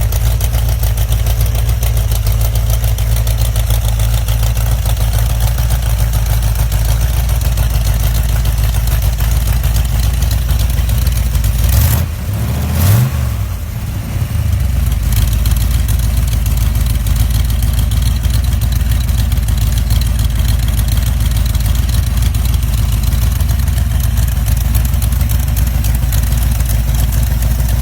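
1973 AMC AMX V8 engine running steadily. About twelve seconds in, its note swings briefly, with a couple of sharp knocks and a short drop in level, then settles back to the same steady running.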